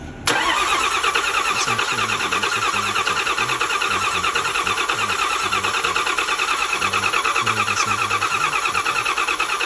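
Car engine turning over with a rapid, even pulsing. It starts abruptly, rises briefly in pitch, then holds steady until it stops near the end.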